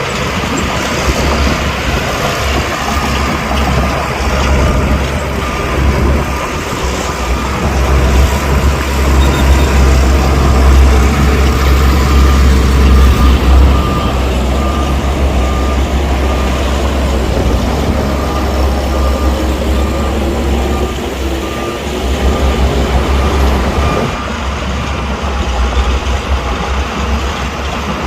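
Heavy diesel earthmoving machinery working, its engine running with deep, steady power that is loudest about a third of the way in. Through the middle a backup alarm beeps at an even pace.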